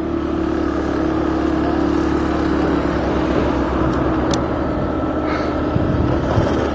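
A small motor vehicle's engine running steadily under way, heard from on board with road and air rush.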